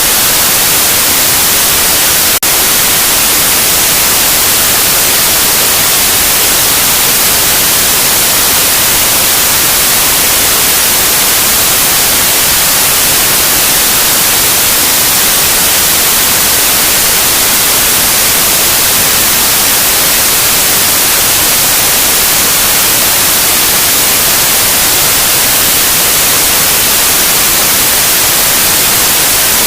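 Loud, steady white noise: an even hiss, brightest in the high range, with one brief click about two and a half seconds in.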